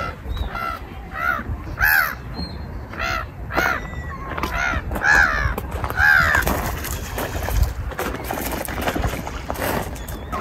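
Water birds calling: a run of harsh, repeated calls about every half second that stops about six and a half seconds in, leaving general outdoor noise.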